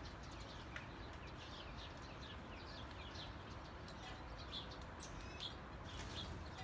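Small birds chirping faintly: many short, high, downward-slurred chirps in quick, irregular succession.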